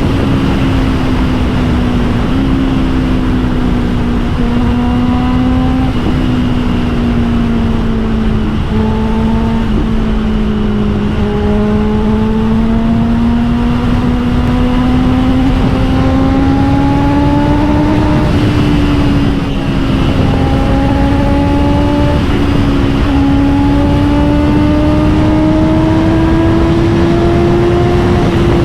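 Honda CBR650R inline-four with an Austin Racing GP1R aftermarket exhaust, heard from on the bike at a steady cruise under wind rush. The engine note sags a little about a third of the way in, then climbs gradually as the bike pulls harder.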